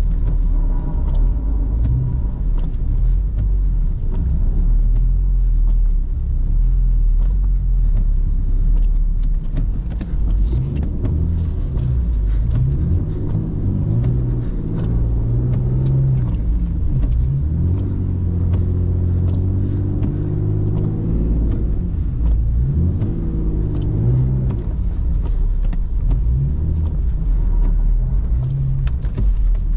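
BMW E39's engine running as the car is driven and slid through deep snow, its pitch rising and falling with the throttle, with a few quick swings up and down past the middle.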